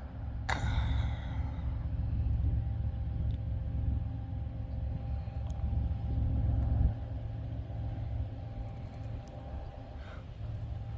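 Diesel locomotive running with a deep, steady rumble as a stopped train starts slowly. About half a second in, a sharp hiss of air fades away over a second or so, and the rumble eases about seven seconds in.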